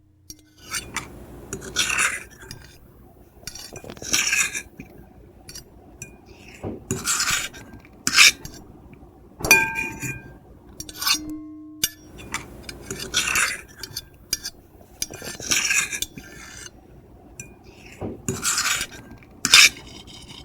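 Metal fork and knife scraping and clinking across a plate in repeated strokes, about one every one to two seconds. A few knocks leave the plate ringing briefly.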